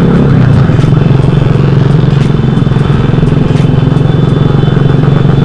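Motorcycle engine with a loud aftermarket exhaust (knalpot) running steadily at a constant pitch, very loud and close.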